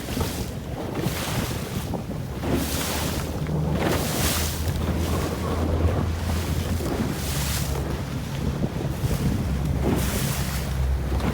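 Wind buffeting the microphone over water rushing and splashing along the hull of a Laser dinghy sailing upwind, with a hissing surge of spray every couple of seconds.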